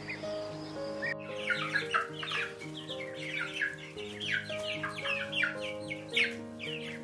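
Chickens calling: many short, falling cheeps and clucks in quick succession, starting about a second in over light background music with a simple melody.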